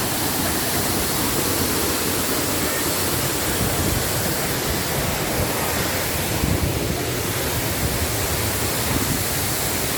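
Waterfall roaring: a loud, steady rush of falling water with no breaks.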